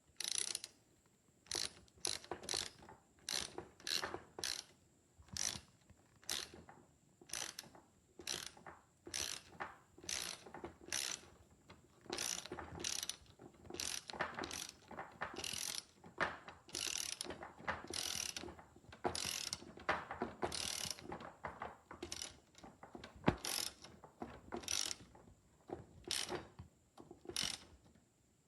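A hand-worked ratcheting mechanism, clicking and rasping in short repeated strokes about one or two a second, with one sharper click near the end.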